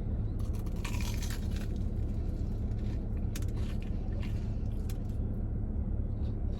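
Crunchy bites and chewing into a fried Korean corn dog's crisp batter: scattered crackles, thickest in the first second and a half, over a steady low hum.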